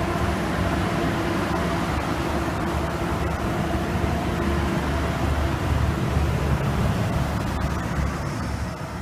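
Israel Railways double-deck passenger train rolling past a platform: a steady low rumble of coaches on the rails with a faint hum. There are a few wheel clicks near the end as the last car goes by, and then the sound starts to fade.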